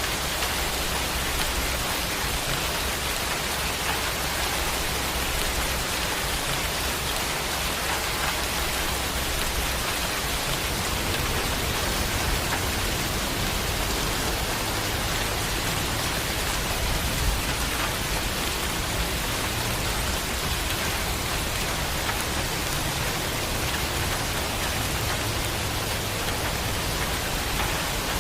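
Steady rain falling, an even unbroken hiss with a low rumble underneath.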